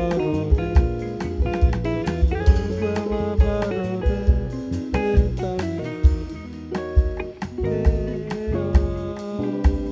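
A small instrumental band plays: guitar over a bass line, with a drum kit keeping a steady beat of drum and cymbal hits.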